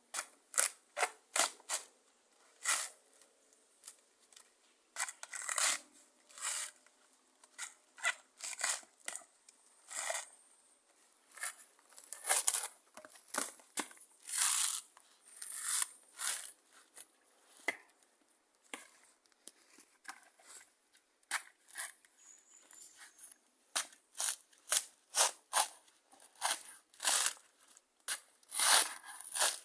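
An irregular run of short, sharp tearing and crunching strokes, sometimes several a second with pauses between, growing louder and closer together in the second half.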